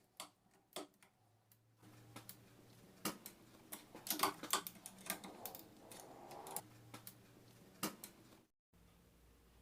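Light metallic clicks and taps of small alternator parts being handled and fitted during reassembly, in an irregular run with a busier cluster about four seconds in, over a low steady hum.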